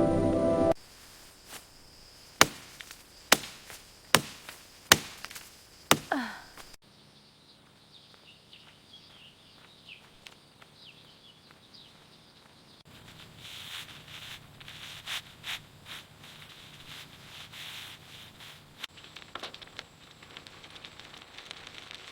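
Palm fronds being chopped with a blade: about six sharp strikes in the first few seconds, then softer cutting, clicking and rustling of the leaves.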